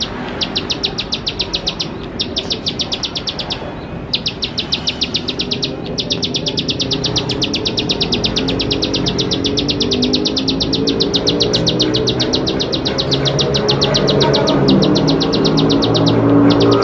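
A ciblek sawah (paddy-field prinia) giving its rapid, high-pitched clicking trill in long runs with short pauses. Background music with sustained low tones fades in under it from about halfway and grows louder.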